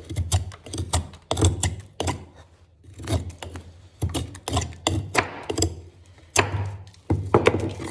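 Repeated sharp knocks and clicks from hard objects being handled, coming in quick clusters about once a second.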